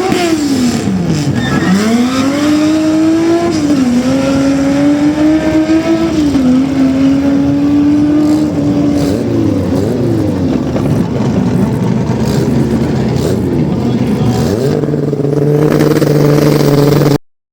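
Car engine at full throttle in a drag run. Its pitch climbs and then drops back at each gear change, three times in the first seven seconds, then holds high and wavers. Near the end it settles into a steadier drone before the sound cuts off suddenly.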